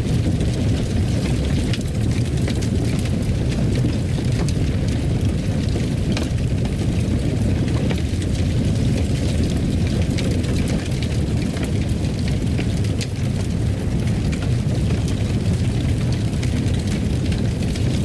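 Wood fire crackling in a fireplace: a steady low rumble with frequent small sharp pops and crackles.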